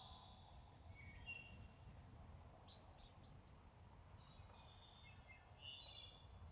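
Near silence with a few faint bird chirps: short high calls about a second in, around three seconds in, and a cluster near the end.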